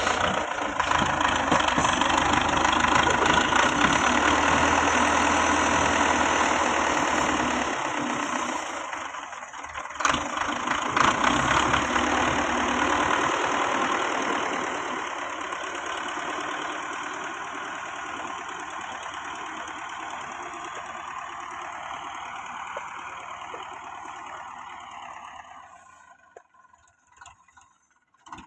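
Belarus 510 tractor's diesel engine running while it works, loudest in the first several seconds, briefly dipping then picking up again, then fading steadily and dropping away to near silence shortly before the end.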